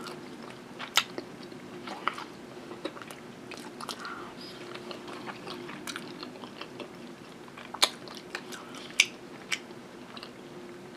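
Close-miked chewing and wet mouth sounds of a person eating macaroni and cheese, with a few sharp clicks of a metal fork against a ceramic bowl of baked beans.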